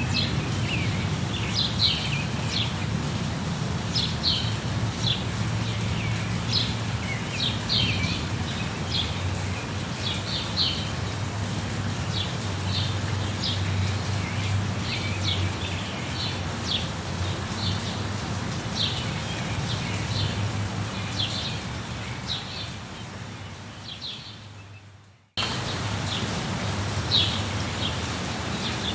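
Steady rain hiss with birds chirping over it again and again. Near the end the whole sound fades out, then cuts straight back in, as at the seam of a looped recording.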